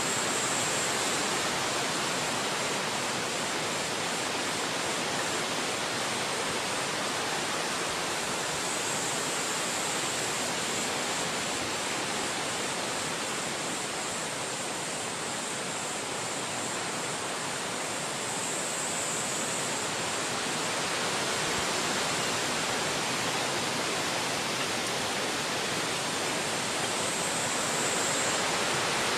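Wind blowing through forest trees: a steady rushing hiss that eases a little midway and swells again later.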